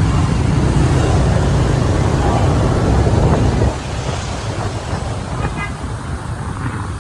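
Road traffic heard from a moving motorbike, with a heavy low rumble of wind on the microphone that drops away suddenly about three and a half seconds in, leaving steadier traffic noise.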